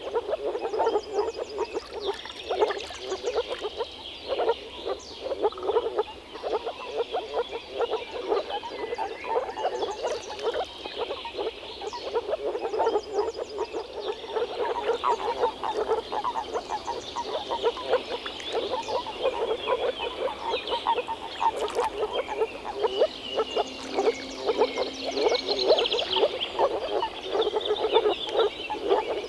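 A chorus of moor frogs (Rana arvalis), many males calling at once in short rapid pulsed calls that overlap into a continuous stream.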